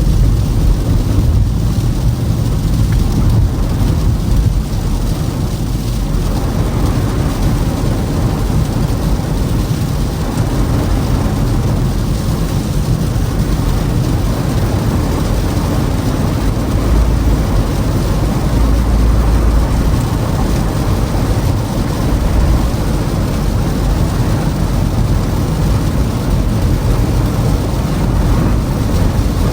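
Steady road and engine noise inside a Toyota Camry's cabin while driving on a snowy road: a continuous low rumble of tyres and drivetrain with a hiss above it. The low rumble swells for a couple of seconds around the middle.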